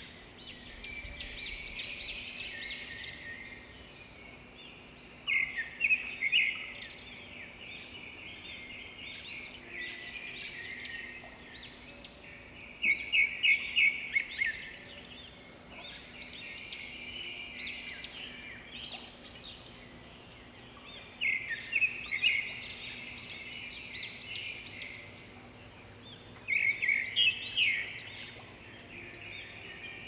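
Birdsong: several birds chirping and trilling, with a loud, rapid chirping phrase coming back every several seconds and quieter chirps in between.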